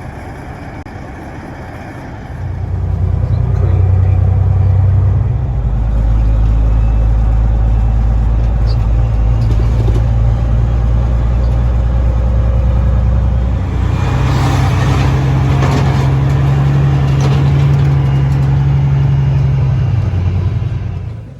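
Semi truck's diesel engine running as a steady low drone. It gets louder about two seconds in, rises a little in pitch about two-thirds of the way through, then drops away near the end.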